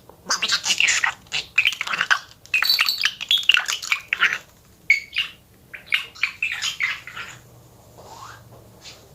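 Budgerigar chattering and warbling: a rapid run of chirps, squawks and scratchy notes that thins out near the end.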